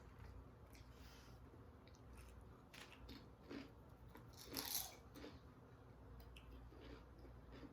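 Crunchy food being bitten and chewed: scattered small crunches and clicks, with one louder crunch about four and a half seconds in.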